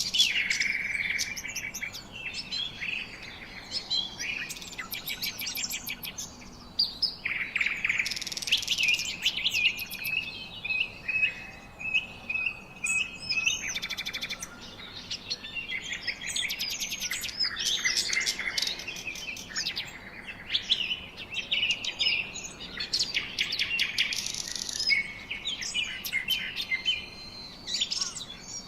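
Several birds chirping and singing at once: overlapping high calls and rapid trills, one after another with hardly a break.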